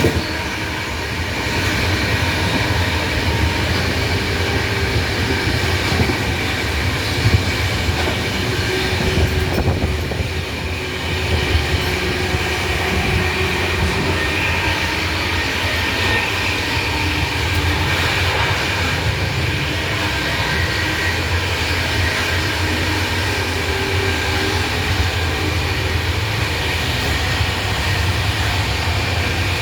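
Steady rumble of a moving train.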